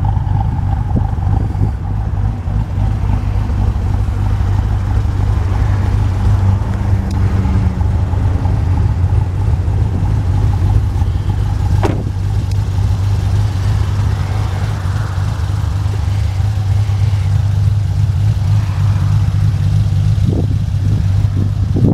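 A 2010 Chevrolet Camaro SS's 6.2L V8 idling steadily: a loud, even low hum with a faint steady whine above it. There is a single sharp click about halfway through.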